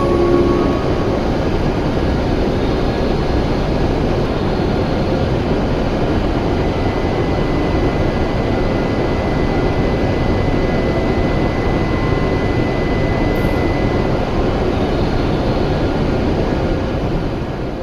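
W7 series Shinkansen train running at speed: a steady rush of running noise, with a faint high tone in the middle, easing off near the end.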